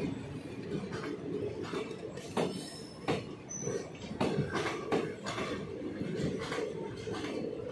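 ICF passenger coaches of a departing express train rolling past: a steady rumble of wheels on the rails with irregular sharp clacks as the wheels cross the rail joints.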